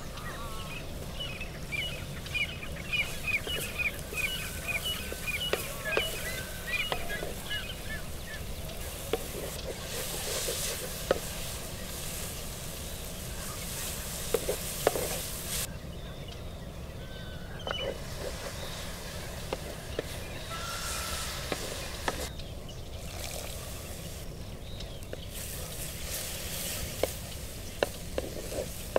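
Sliced green chillies sizzling in a clay pot, the hiss swelling and easing as a wooden spatula stirs them, with scattered scrapes and knocks of the spatula against the pot. A bird chirps rapidly in a quick series during the first several seconds.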